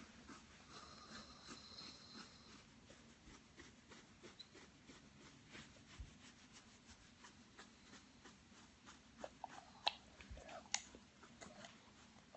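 Near silence: room tone with faint scattered clicks and taps, and a few sharper clicks near the end.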